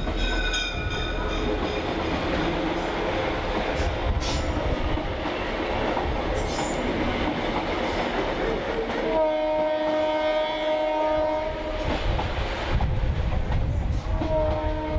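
Train rolling along with steady wheel and rail noise and irregular clicks over rail joints, heard riding in the trailing caboose. The diesel locomotive's air horn tails off about a second in, sounds one long chord about nine seconds in, and starts another long blast near the end.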